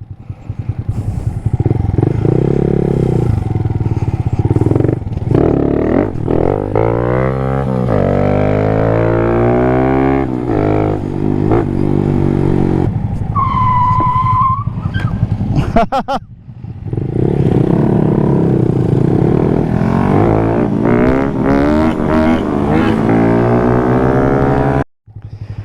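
Small motorcycle engine under way, its revs rising and falling repeatedly through acceleration and gear changes. A brief high-pitched tone of about a second sounds near the middle.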